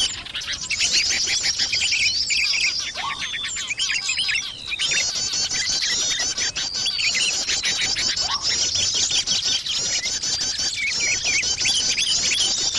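Bird-lure recording of many small songbirds chirping and twittering at once, a dense, unbroken high chatter of rapid chirps. A short, lower rising note recurs about every five seconds.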